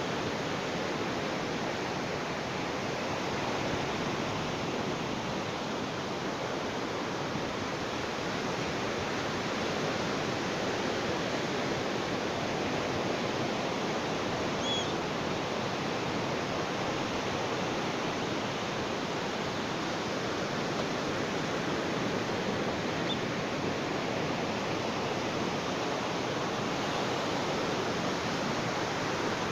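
Ocean waves washing on a beach as a steady, even rush of surf, with hardly any rise and fall.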